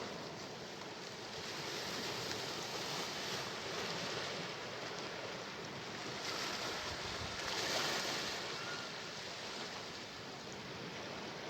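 Sea waves breaking and washing on the shore, a steady surf that swells and eases, loudest about eight seconds in.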